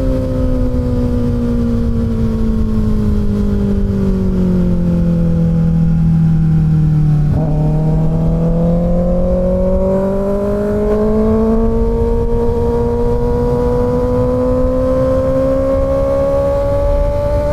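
Kawasaki Ninja ZX-6R inline-four engine on the road: revs falling off for about seven seconds, a short click and break in the engine note, then the revs climbing steadily as the bike accelerates, over low wind noise.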